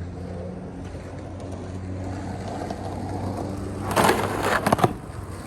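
Skateboard wheels rolling on concrete with a steady hum, then a quick run of loud clacks and scraping from the board about four seconds in.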